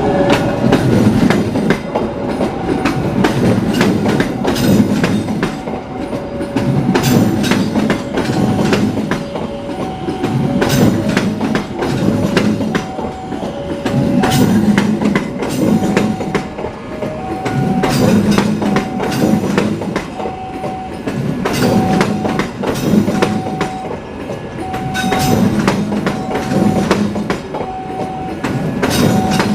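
A train rolling through the station, its wheels clacking over rail joints, with the loudness swelling and falling every couple of seconds as the cars pass. A short beeping tone repeats about every second and a half alongside it.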